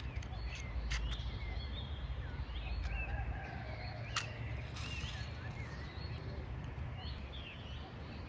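Small birds chirping in short, quick calls over a steady outdoor background hiss and low rumble, with a few sharp clicks, the loudest about four seconds in.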